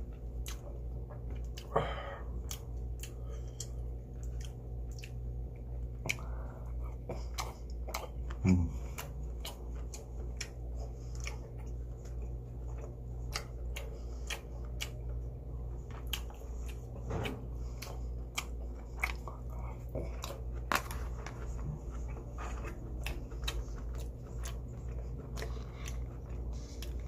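Close-up eating sounds: a person chewing food, with many small clicks and taps of wooden chopsticks against a plastic bowl, over a steady low hum. A brief louder low mouth sound about eight and a half seconds in.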